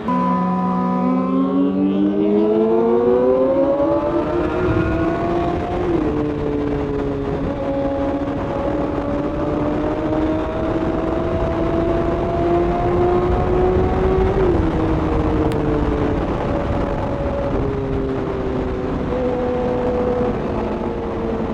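Inline-four sport bike engine pulling hard, its pitch rising over the first few seconds and dropping at upshifts about six and fourteen seconds in, then holding fairly steady at cruising speed. Wind rushes over the microphone throughout.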